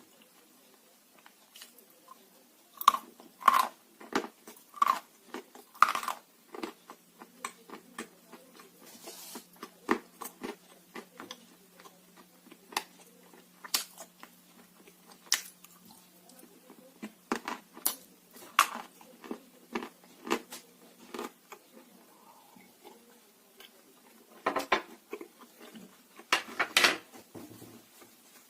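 Dry blue Uzbek clay being bitten and chewed: sharp, brittle crunches and crackles in irregular clusters, the loudest bites coming a few seconds in and again near the end.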